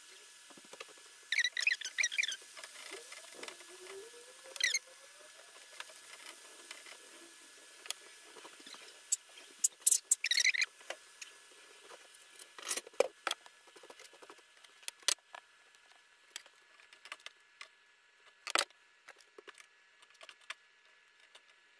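Chicken of the woods mushroom strips frying in oil in a pan: irregular crackling and spitting pops, some in quick clusters, over a faint sizzle.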